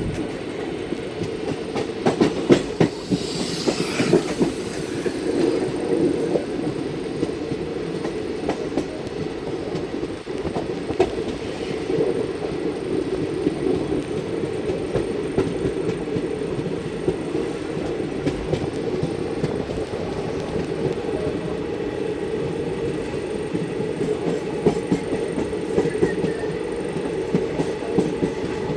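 Godan Express passenger train running along the track: a steady rumble of wheels on rails with frequent short clicks and knocks. A brief higher rushing hiss comes in about three seconds in.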